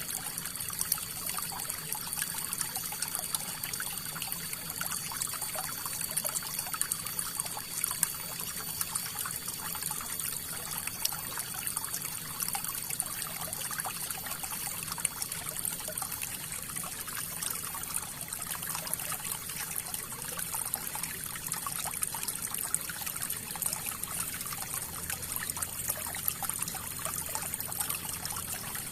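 River water flowing, a steady trickling and splashing with many small, sharp splashes throughout.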